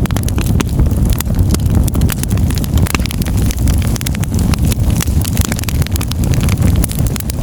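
Wood fire burning in a fireplace: a steady low roar of the flames with frequent, irregular sharp crackles and pops from the burning logs.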